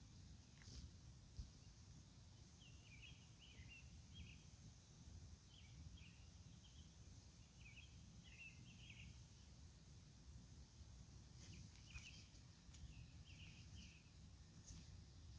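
Faint outdoor background: a low steady rumble with scattered clusters of short high chirps from birds calling.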